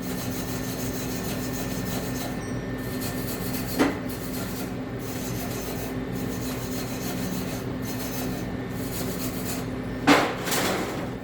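Steel being scrubbed clean by hand in repeated strokes, prepping the joint for welding. A short knock comes about four seconds in, and a louder clank near the end.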